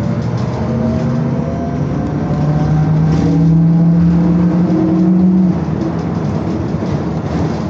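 BKM-221 articulated trolleybus's electric traction drive whining under way: a hum with steady tones that rise and step up in pitch a couple of times as it accelerates, then drop back about five and a half seconds in as the power eases.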